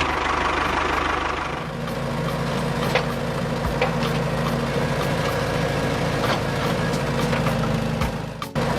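Engine of a homemade mini tractor running steadily at idle, with a short break near the end.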